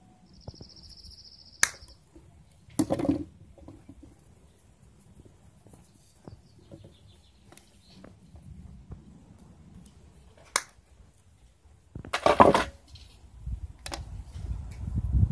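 Hand-tool workshop sounds of short wires being cut and handled: a few sharp clicks and snips and two short, louder crunching scrapes, with a brief high trill near the start.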